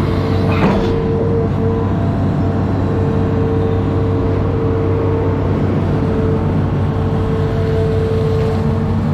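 An amphibious excavator's diesel engine running steadily, with a steady whine held over the drone and one brief knock under a second in.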